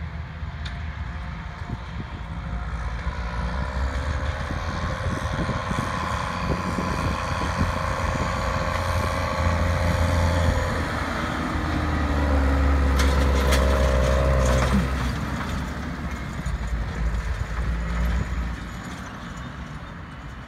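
Heavy farm machine's diesel engine driving past: it grows louder, is loudest about twelve to fifteen seconds in, then fades, with a brief rattle at its loudest.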